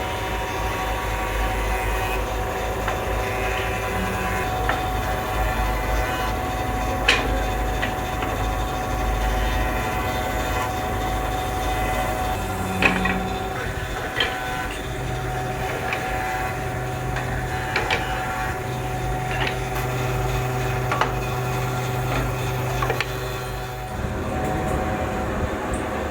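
Woodworking machinery running steadily, a constant hum with several held tones and occasional sharp knocks. The low hum shifts near the end.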